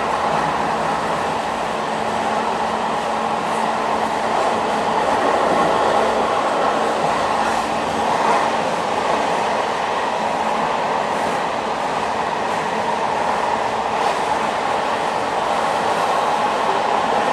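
Passenger train running on rails: a steady rumble and rail noise with a faint low hum underneath and a few scattered light ticks.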